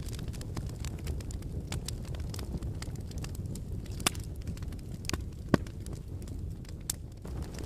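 Wood fire burning in a fireplace: a steady low rumble of the flames with scattered sharp crackles and pops, the loudest a few seconds in.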